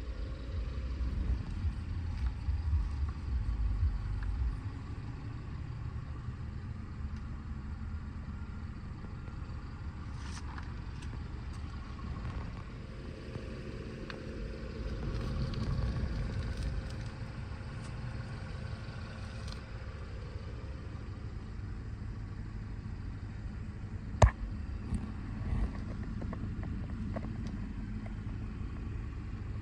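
The 2015 Mercedes-Benz C300 4MATIC's turbocharged four-cylinder engine idling, a steady low rumble, with a few faint clicks and one sharp click about 24 seconds in as the doors and interior are handled.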